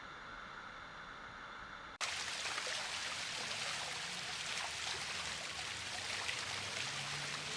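A quieter steady hiss cuts off abruptly about two seconds in. It gives way to louder rushing, splashing water from a waterfall.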